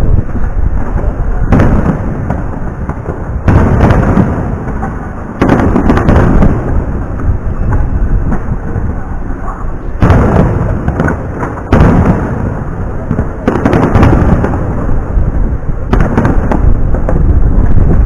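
Aerial firework shells bursting overhead: a run of loud, sudden booms about every two seconds, each rolling into a deep rumbling echo like thunder.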